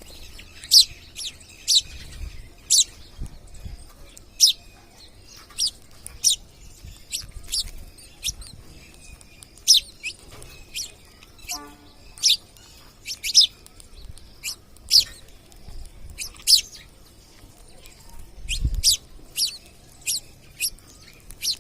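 Parrots giving short, shrill calls over and over, one or two at a time about every second. There is a low bump near the end.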